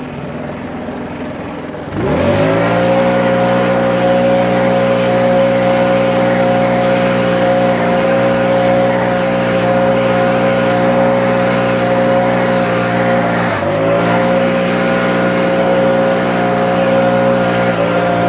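Commercial lawn mower engine revving up from a low speed about two seconds in, then running steadily at full throttle, with one brief dip and recovery near the end.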